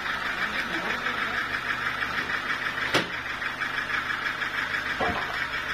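Portable sawmill's engine running steadily with a fast even pulse, with one sharp knock about three seconds in and a fainter knock near the end.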